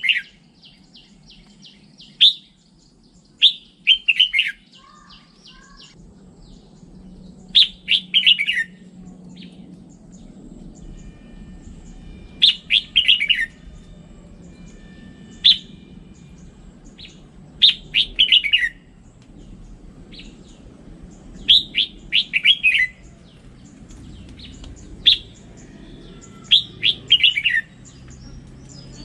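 Red-whiskered bulbul singing: about ten short phrases of quick high notes, one every few seconds, over a faint low hum.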